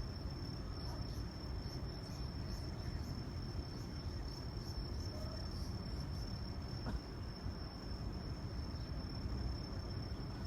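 Steady outdoor ambience: an even low rumble with a continuous high-pitched whine held on one pitch.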